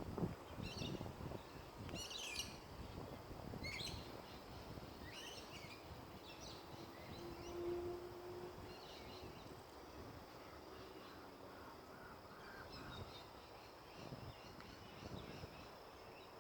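Birds chirping, a quick cluster of high notes every second or so for the first several seconds, then fewer and fainter, over a faint low rumble.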